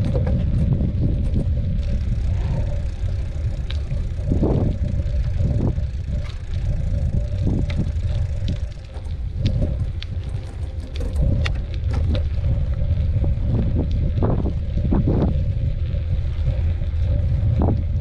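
Wind rumbling on the microphone during a bicycle ride, with the bike rattling and knocking over bumps in the trail.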